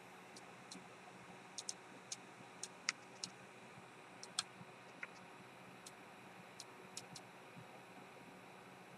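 Faint little popping clicks at irregular intervals from a powered-on Losi Micro SCTE 1/24 brushless RC truck that will not drive, as if something is trying to work. They are a sign of a fault in the truck's electronics or drive.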